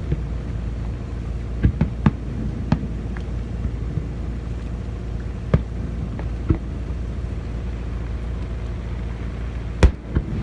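Scattered fireworks bangs, about six sharp reports spread across the stretch, the loudest near the end, over a steady low rumble.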